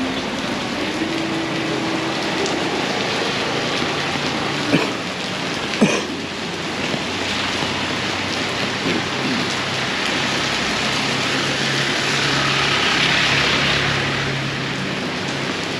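Heavy tropical rain pouring down in a steady hiss on streets and surfaces, swelling louder a little past the middle. Two sharp knocks come about five and six seconds in, and a low steady hum runs underneath from about four seconds on.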